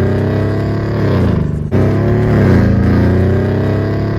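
Tuned Mercedes-AMG E63 S twin-turbo V8 with downpipes accelerating hard, its engine note climbing in pitch. About a second and a half in there is a sudden brief break as it shifts up, then the note climbs again.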